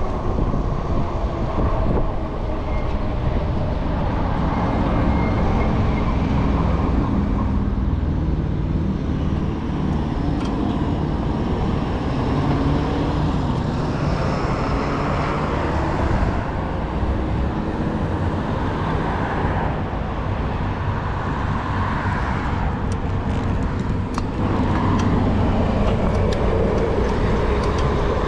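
Steady street-traffic and road noise heard from a moving e-bike, a continuous rumble with motor vehicles passing.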